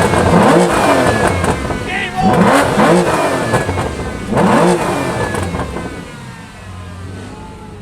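Sports car engine revved hard while stationary: a series of sharp revs about two seconds apart, each climbing and falling back in pitch. It then settles to a steady idle for the last couple of seconds.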